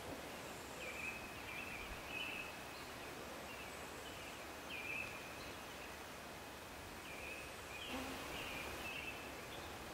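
Birds calling at dawn, with short calls repeating every second or two over a steady outdoor hiss.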